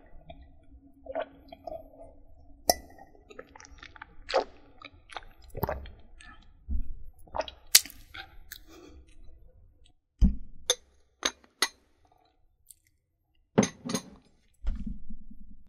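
Close-up ASMR trigger sounds: irregular sharp clicks, taps and light clinks of small objects being handled, with a short silent pause about two-thirds of the way through.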